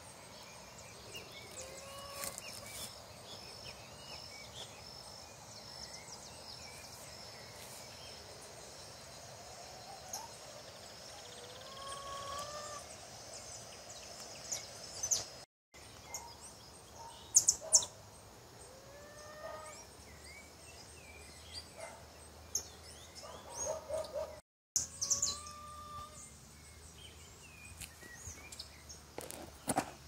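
Birds calling in short, curving whistled notes over a faint steady outdoor background, with a few sharp clicks about halfway through and two brief cuts to silence.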